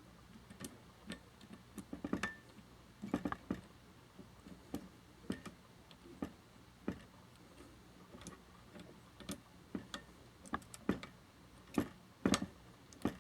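Clicks from firing a DBR01-X electronic fireworks firing system one cue at a time: a couple of dozen sharp clicks, unevenly spaced, with one short faint beep about two seconds in.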